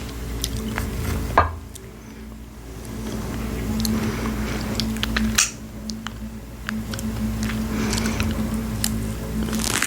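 Close-miked chewing and squishing mouth sounds of someone eating fresh strawberries with whipped cream. Sharp clicks come about a second and a half in, about five seconds in and near the end, over a steady low hum.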